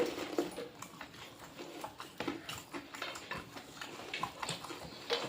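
Eating sounds: chewing and mouth noises with scattered small clicks, a sharper click right at the start.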